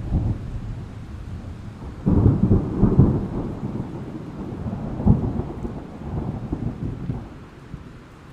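Thunderstorm sound effect: a loud, low roll of thunder breaks out about two seconds in, swells again around five seconds, and dies away near the end, over a steady hiss of rain.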